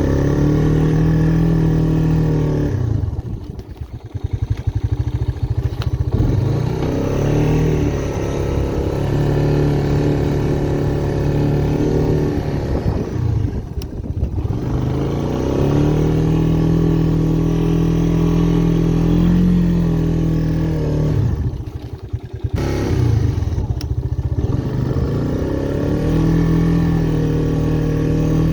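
Honda ATC Big Red 250ES three-wheeler's single-cylinder four-stroke engine working steadily under throttle while pushing a snow plow. The throttle is let off three times, about three, thirteen and twenty-two seconds in, and each time the note falls away before revving back up.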